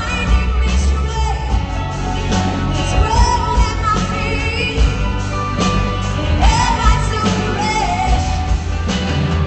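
A song with a singer holding long, wavering notes over full band accompaniment with a heavy bass line.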